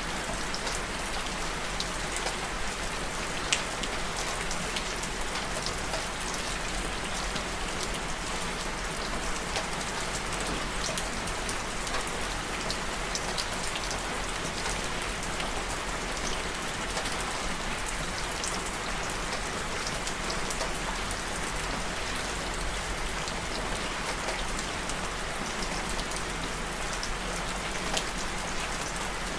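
Steady rain falling on a surface, with many scattered drop impacts and one sharper drip about three and a half seconds in.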